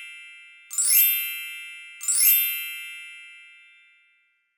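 A bright, chime-like ding rings out twice, each strike fading slowly. The first moments hold the fading tail of an earlier identical strike.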